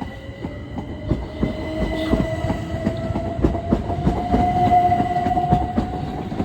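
Train running past, its wheels clicking over rail joints, with a whine that slowly rises in pitch.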